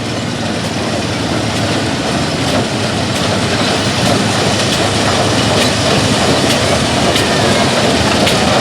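Vintage corn sheller running as ear corn is shelled, a dense, steady mechanical rattle with light repeated clicks, growing slowly louder.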